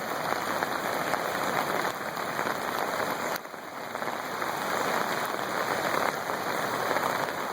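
Flooded river water rushing over small rapids: a steady, dense hiss of fast-moving water, dipping briefly about three and a half seconds in.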